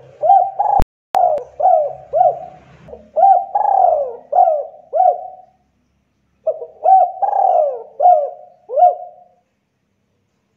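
Spotted dove (tekukur) cooing: two runs of short, hooked coo notes at about two a second, with a pause of about a second between them. A sharp click comes about a second in.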